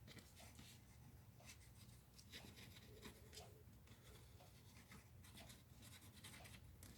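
Near silence: faint rustling and light taps of cardstock being handled and pressed together, over a low steady hum.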